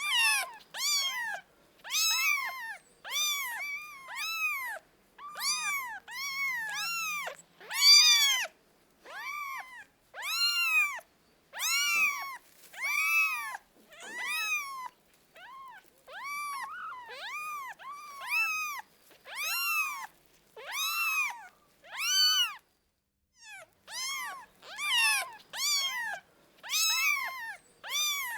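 Kittens meowing over and over: high, rising-and-falling cries, about one or two a second, with a few short pauses.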